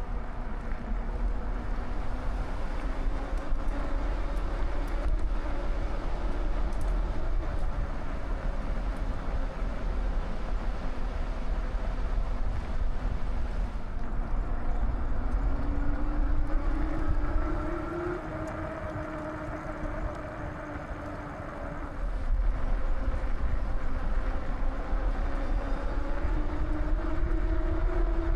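Wind rumbling on the microphone while riding a bicycle, with a faint whine that slowly rises and falls in pitch. The wind noise eases for a few seconds past the middle.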